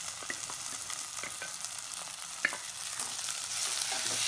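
Boiled pearl millet grains dropping into hot oil and spice paste in a steel pot, sizzling steadily, with scattered clicks and taps of metal on metal and one sharper click about two and a half seconds in. The sizzle grows louder near the end as the grains are stirred in with a spatula.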